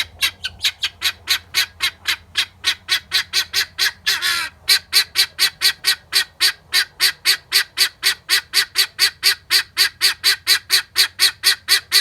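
Male helmeted guinea fowl screeching, a fast, even string of short harsh calls at about four a second. About four seconds in, a single longer, rougher call breaks the rhythm.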